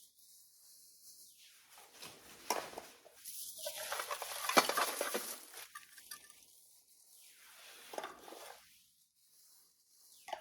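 Rustling and handling noise as flea-market finds are unpacked and moved about, with a couple of sharper clicks of hard objects knocking together.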